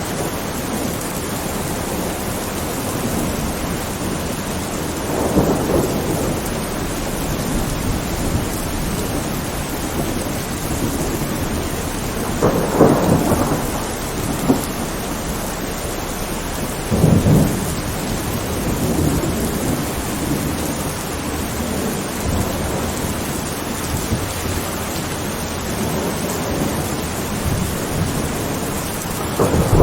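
Thunderstorm: steady rain with rolls of thunder rumbling several times, about five seconds in, around thirteen seconds, again around seventeen seconds, and building again at the very end.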